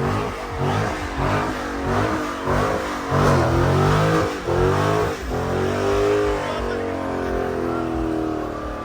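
A car's engine revving hard in quick rising and falling surges, then holding a higher, steadier pitch from about halfway, while its tires spin in a burnout.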